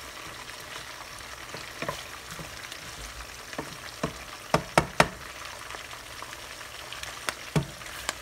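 Sliced onions and green bell peppers sizzling in vegetable oil in a skillet, stirred with a wooden spatula. Several sharp knocks of the spatula against the pan cut through the sizzle, three in quick succession about halfway through and a couple more near the end.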